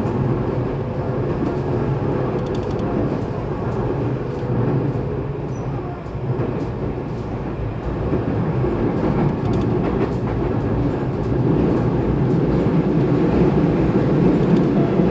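Tobu 20400 series electric train running between stations, heard inside a motor car fitted with Toyo GTO inverter drive: a steady rumble of wheels on rail and the running gear, growing louder about eight seconds in.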